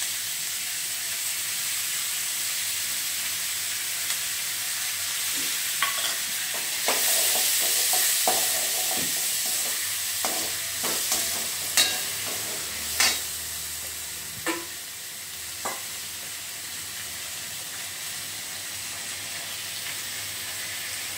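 Chopped onions, green chillies and curry leaves frying in oil and chilli sauce in a stainless steel kadai: a steady sizzle. A metal ladle scrapes and clinks against the pan as it is stirred, with several sharp clinks through the middle.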